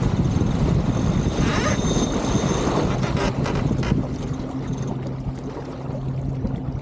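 Wind and water rushing noise aboard an Elliot 7.4 sailboat under way, with a steady low hum coming in about four seconds in as the rushing eases.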